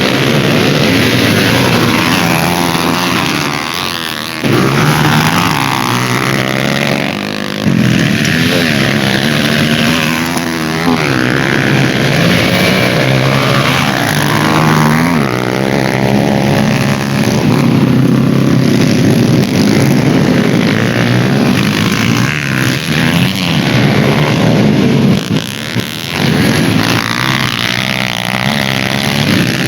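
Racing motorcycle engines revving hard on a dirt autocross track. The pitch keeps climbing and dropping with throttle and gear changes, and more than one engine is heard at once.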